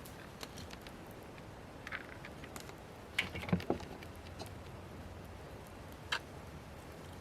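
A handful of light, scattered clicks and knocks over a faint steady background, the loudest a short cluster about three and a half seconds in.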